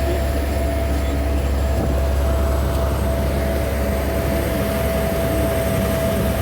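Scania P124 truck's diesel engine running under way with road noise, heard from inside the cab: a steady low rumble with a constant high whine over it.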